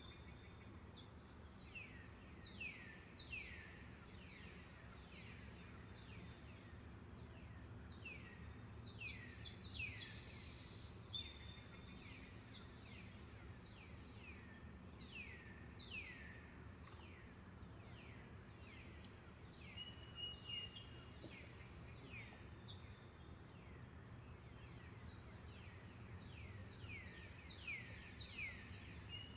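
Forest birds calling with many short downward-sweeping notes, repeated over and over, above a steady high insect trill. A low steady rush of flowing river water lies underneath.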